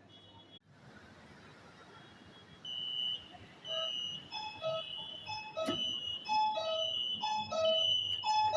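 Electronic chime melody: a string of short, clean beeping tones of changing pitch, about two a second, starting about three seconds in over a quiet hum.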